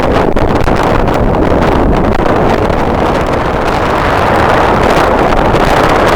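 Strong wind buffeting the microphone: a loud, steady rush with gusts knocking at it, growing a little fuller in the second half.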